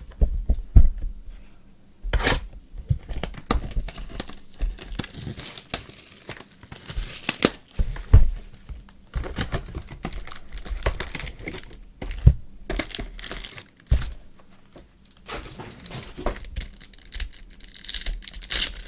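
Trading-card pack wrappers and box wrap being torn open and crinkled, with irregular knocks and rustles as the cards and box are handled.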